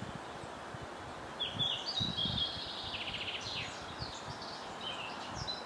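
Songbirds singing in short phrases, one giving a fast trill near the middle, over a steady outdoor hiss with soft low rumbles.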